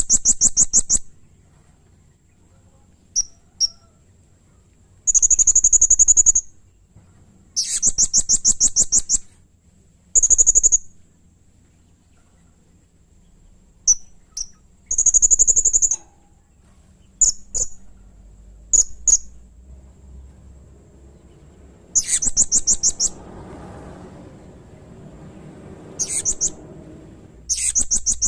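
Blue-crowned hanging parrot (serindit) calling: repeated shrill, rapidly pulsed high calls lasting about a second each, with short single chips in between.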